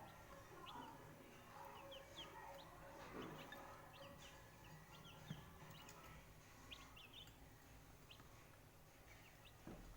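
Young Asil chicks peeping faintly: scattered short, high cheeps.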